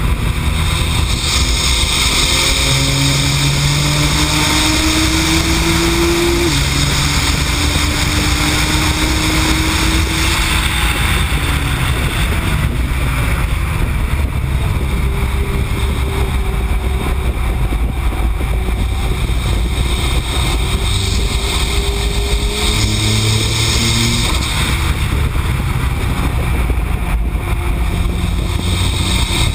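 AAM-800+ tuned Nissan GT-R's twin-turbo V6, running on its low boost setting at track speed, its pitch climbing and dropping several times, under a steady rush of wind and road noise.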